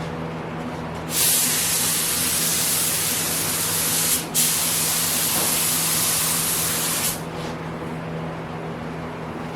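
Compressed-air automotive spray gun hissing in two long pulls of the trigger, about three seconds each with a brief release between them, over a steady low hum.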